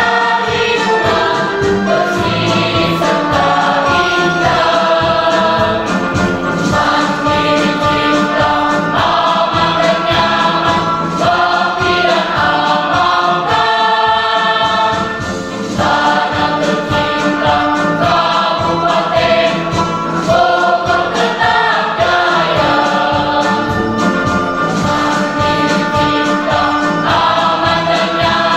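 Choir singing a march anthem in several parts, the voices moving together from note to note at a steady, full level, dropping back briefly about halfway through.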